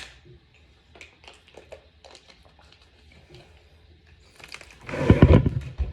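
Scattered light clicks and taps of tools and small parts being handled on a wooden accordion, then louder rubbing and knocking from about four and a half seconds in.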